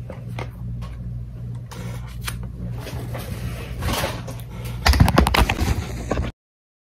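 Rustling and clicking of handled food packaging over a steady low hum, with a louder crackling rustle about five seconds in; then the sound cuts off abruptly.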